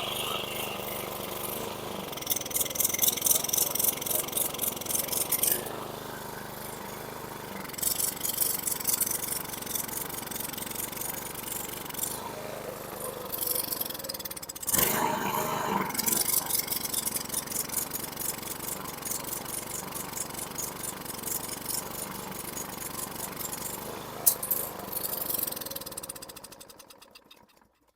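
Craftsman M100 mower's Briggs & Stratton 500E-series engine running rough, surging and sagging, kept alive only by primer-bulb squirts of raw fuel and carb cleaner. It winds down and dies near the end. This is a fuel delivery fault: the carburetor isn't getting fuel on its own.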